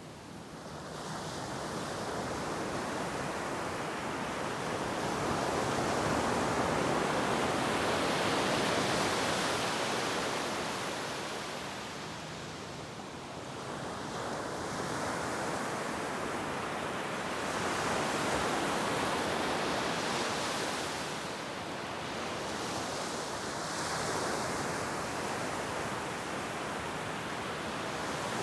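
Ocean surf breaking and washing on a beach, a steady roar of noise that swells and eases in slow surges every several seconds.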